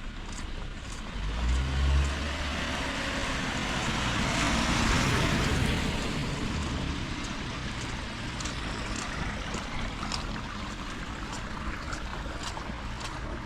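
A car passing on a wet road: tyre hiss swells to its loudest about five seconds in, then slowly fades. A low rumble comes just before it, about two seconds in.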